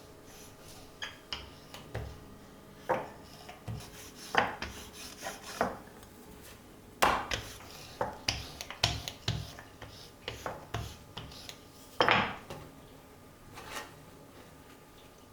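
Kitchen handling sounds: dishes and utensils clinking and scraping in irregular short strokes, with a couple of louder scrapes, over a faint steady hum.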